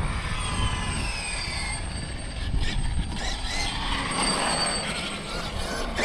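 Electric motor whine of a Losi 5ive TE 3.0 RC truck running, the pitch gliding up and down with the throttle, over a low rumble.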